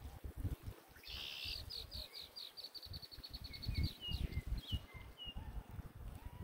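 Outdoor birdsong: a bird sings a fast high trill of about eight notes a second for over two seconds, then a few short falling whistles. A low irregular rumble of wind noise runs beneath.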